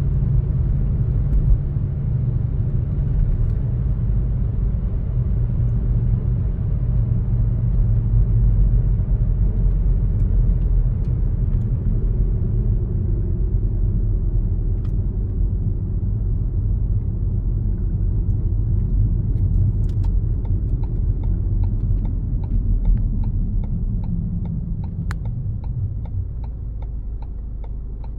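Car driving, heard from inside the cabin: a steady low rumble of road and engine noise. The rumble eases toward the end, and a few light ticks come through in the last several seconds.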